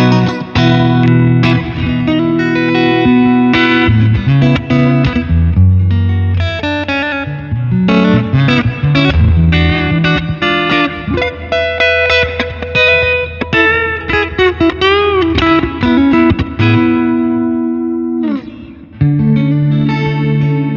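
Squier Stratocaster electric guitar played through an amplifier, strummed chords and single-note lines with string bends. Near the end a note glides steadily downward in pitch, and then the playing starts again.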